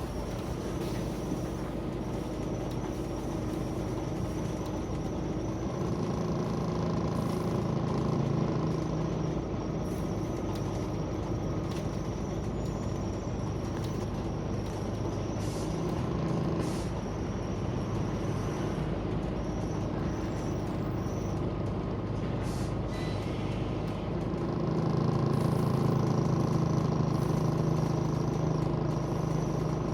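Scania CN94UB Omnicity single-deck bus heard from inside the saloon while under way. The engine's hum strengthens as the bus accelerates about six seconds in and again near the end, with a few knocks and rattles from the body.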